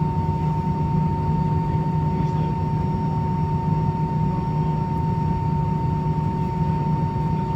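Steady cabin noise inside an Airbus A319 with its engines running: a low rumble with a steady whine over it, unchanging throughout.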